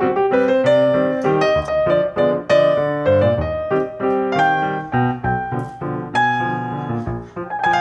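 Background music: a piano playing a melody of separate notes over chords.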